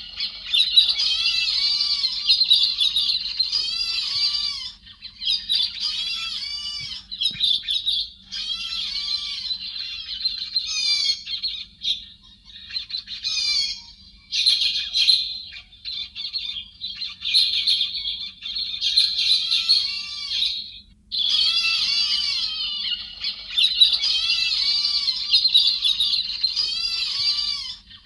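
Héc xoan birds calling: fast, chattering runs of harsh, high arching notes in long bouts with short pauses, over a faint steady hum.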